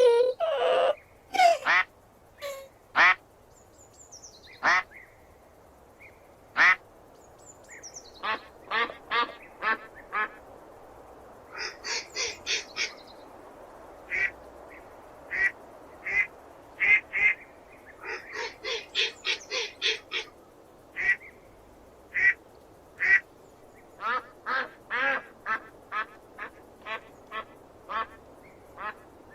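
Duck quacking: short quacks, some alone and some in quick runs of four or five.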